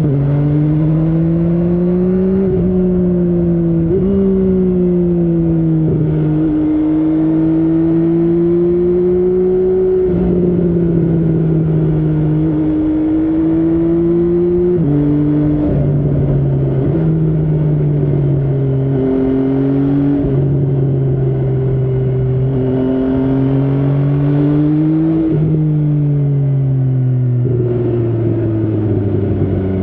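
MV Agusta Brutale 800's three-cylinder engine under way, its pitch climbing under throttle and dropping sharply at each of several upshifts, then falling lower as it slows near the end.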